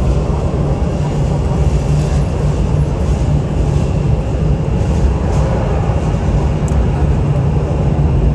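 Jet airliner engines running with a steady, loud, low rumble.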